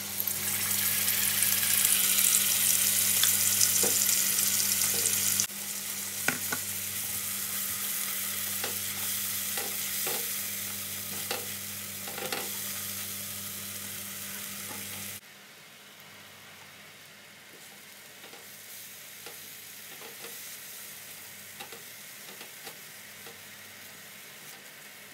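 Ground chili-and-shallot spice paste sizzling as it is stir-fried in hot oil in a nonstick wok, with a spatula clicking and scraping against the pan. The sizzle is loudest for about the first five seconds, then drops in level twice, at about five and fifteen seconds in.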